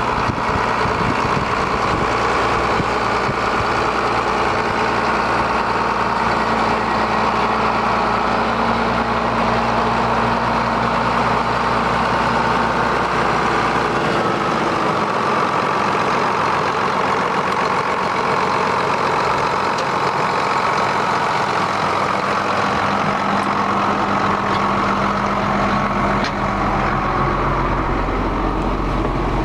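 John Deere 7810 tractor's six-cylinder turbo diesel engine running at a steady idle. Its tone shifts about halfway through and again near the end.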